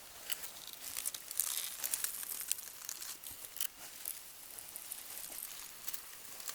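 Crinkly rustling and crackling close to the microphone, with many small irregular clicks, busiest between about one and two seconds in.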